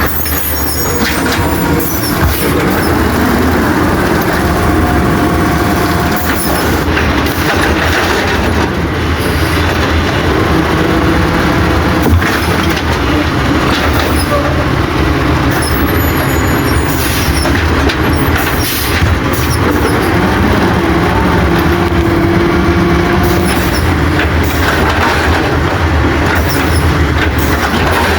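Autocar WX64 refuse truck engine held at high revs to drive the Amrep body's hydraulics while packing trash, running steadily, with a hydraulic whine that comes and goes and scattered metal clanks.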